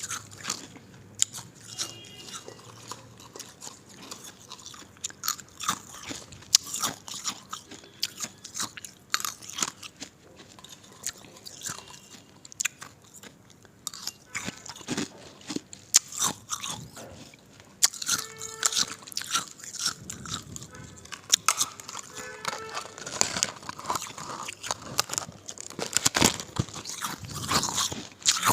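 Ice being bitten and chewed: loud, irregular crunches and sharp cracks, close up.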